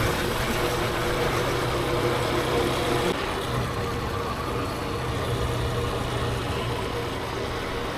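Motorbike on the move at a steady speed: a steady low hum under a rushing noise of wind and road, with a faint steady whine that stops about three seconds in.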